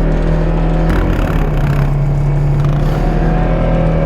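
Off-road vehicle engine running steadily under load, with a burst of hissing, scraping noise about a second in and a slight rise in pitch near the end.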